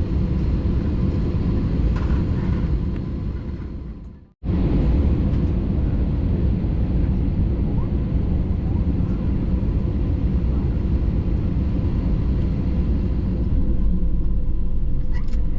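Steady low rumble inside the cabin of an Airbus A320 on the ground before takeoff, with a faint steady hum above it. It fades away and cuts back in abruptly about four seconds in, and a few faint clicks come near the end.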